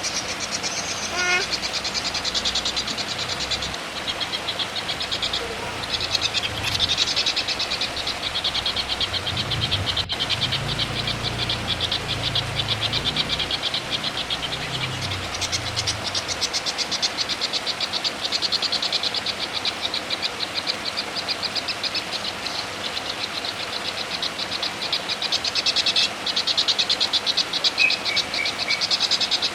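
A high, very fast pulsing trill of animal calls, continuous and rattling, with a few short chirps over it. This is the kind of call used in a songbird training recording.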